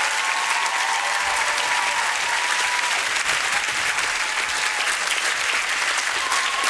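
Large studio audience applauding, a dense steady clapping with a few voices calling out underneath.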